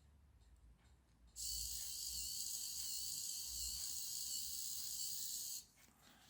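Small DC gear motor of a toy line-follower car running with a steady high-pitched hissing whirr, switched on about a second and a half in and cut off suddenly about four seconds later.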